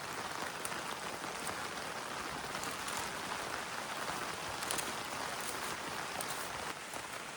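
Heavy rain falling steadily on the tent, an even hiss of drops on the fabric.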